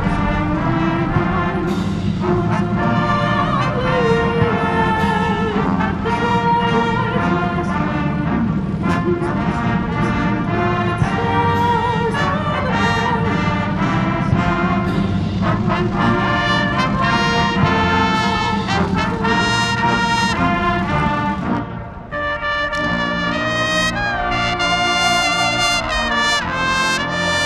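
Brass-heavy music with trumpets and trombones playing, over a dense low rumble. The rumble drops away about 22 seconds in and the brass carries on.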